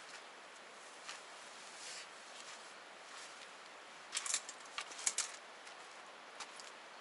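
Campfire crackling: scattered sharp pops and snaps over a faint steady hiss, with two quick clusters of crackles a little past the middle.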